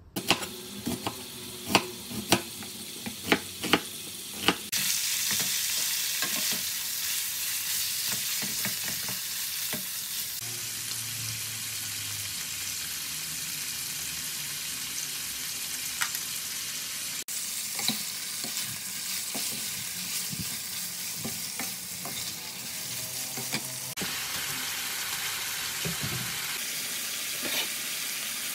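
Cubed pork belly frying in a hot wok and being stirred with a wooden spatula: a run of sharp knocks and clicks in the first five seconds, then a steady sizzle with light scraping.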